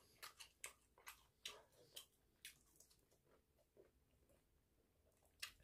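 Faint chewing of chicken popcorn: about ten small, sharp, irregularly spaced clicks.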